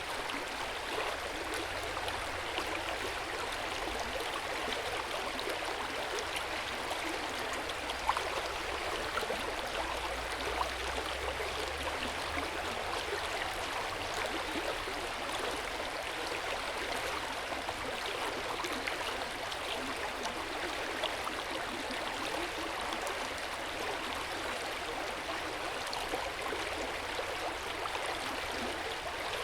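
Hot spring water flowing steadily into an outdoor stone bath, a continuous even splashing of running water.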